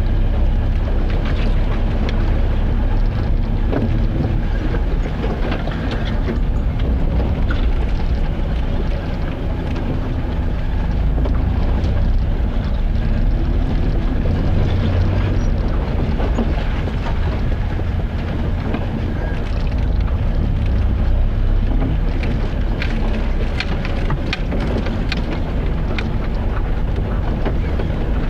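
Steady low rumble of a vehicle on the move, engine and road noise, with a few sharp clicks or rattles near the end.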